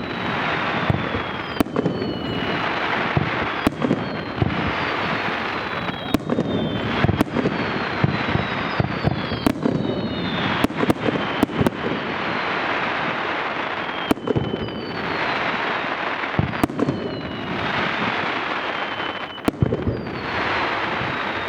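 Aerial fireworks by Wakamatsu Enka Seizosho: sharp shell bursts going off every second or so, several whistles falling in pitch, and repeated spells of dense crackling from crackle stars.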